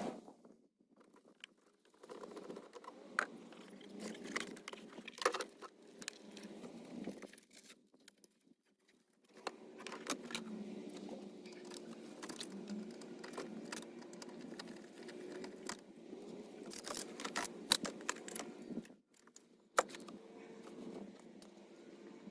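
Light rustling and scattered small clicks and jingles, like things being handled and shifted about, with short quiet gaps in between.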